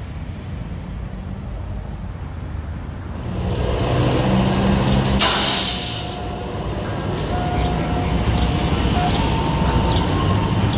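Ice cream truck engine running as it pulls up, louder about three seconds in, with a short sharp hiss of air brakes about five seconds in. From about seven seconds the truck's music box chime tune starts faintly.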